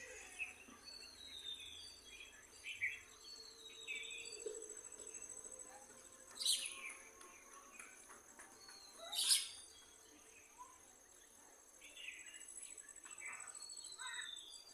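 Small birds chirping and calling: many short chirps and downward-sliding notes, with two louder, sharp falling calls about six and nine seconds in. A steady high insect drone runs underneath.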